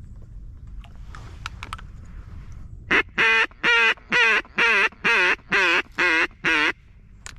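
Mallard duck call blown by hand: a run of nine loud, evenly spaced quacks, a little over two a second.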